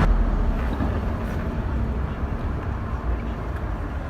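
Low rumble of a manual-transmission car heard from inside the cabin, slowly getting quieter.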